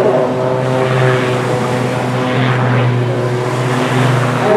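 CAP 231 aerobatic plane's six-cylinder Lycoming piston engine and propeller droning steadily in flight, the pitch shifting slightly as it manoeuvres.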